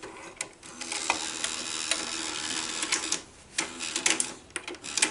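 Sony SL-330 Betamax VCR taking in a cassette: the loading mechanism whirs steadily for about two and a half seconds, then a series of mechanical clicks and clunks follows as the tape is threaded and the mechanism settles. The cassette basket has just had its broken gear repaired.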